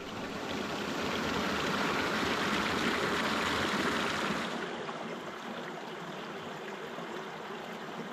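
Rushing water, swelling for the first few seconds and then settling to a lower, steady level about halfway through.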